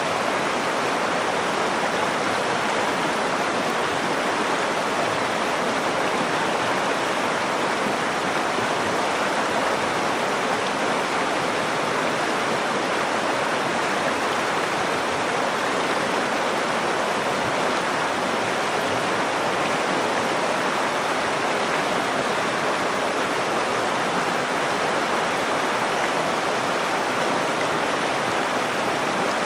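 River water flowing: a steady, unbroken rush of water.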